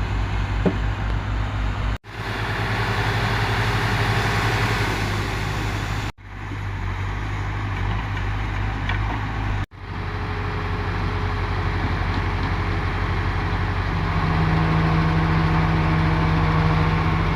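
Heavy diesel engine machinery running steadily, as a Case 580K backhoe loader works to pull a stuck New Holland 8060 free. The sound breaks off abruptly three times and grows a little louder with a stronger engine note from about two-thirds of the way in.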